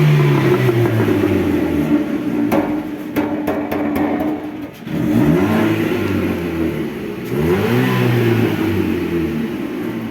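Chevrolet Cobalt's four-cylinder engine revved hard through a muffler whose insides are breaking up. The engine is already at high revs, holds, and drops about five seconds in, then climbs twice more, with a run of sharp rattling clicks between.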